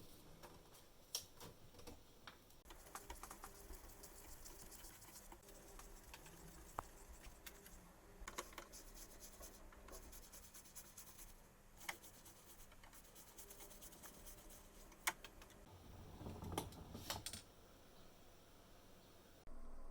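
Faint, scattered clicks and taps with light scraping from small parts being handled, with a brief louder rustle near the end.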